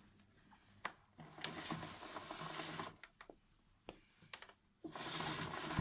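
Handling noise: a few light clicks and two stretches of scraping and rubbing, the first about a second in and the second near the end, as vacuum cleaner parts and hose are handled.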